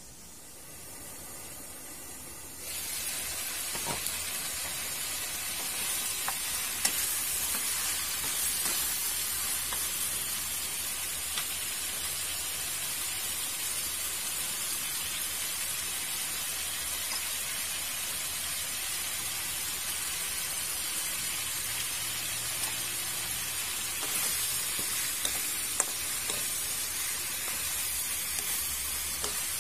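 Pork ribs sizzling as they sear in an oiled pan, quieter and muffled under a glass lid for the first couple of seconds, then a loud, steady sizzle once the pan is uncovered. Sliced onion is stirred in with a wooden spatula, with a few light clicks against the pan.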